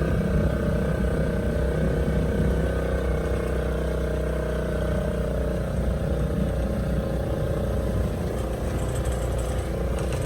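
Small boat's outboard motor running steadily under way, a constant engine hum with low rumble.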